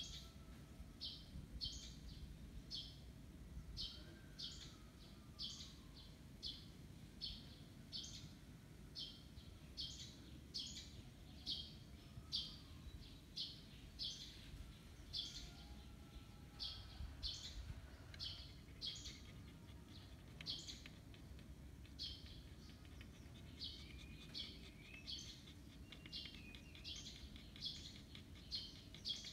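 A bird chirping over and over, about one to two short, high chirps a second, with fainter calls of other birds now and then.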